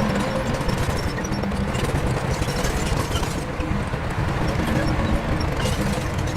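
Heavy diesel earthmoving machinery running steadily under load, with scattered metallic clicks and clanks over the engine.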